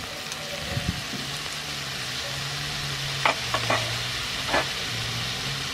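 Shrimp sizzling as they fry in a frying pan, a steady hiss, with a few short sharp clicks a little past the middle.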